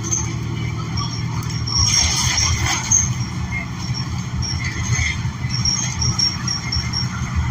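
Interior of a New Flyer XN40 transit bus under way with its HVAC off: the steady drone of its Cummins Westport L9N natural-gas engine and road rumble. A brief hiss comes about two seconds in.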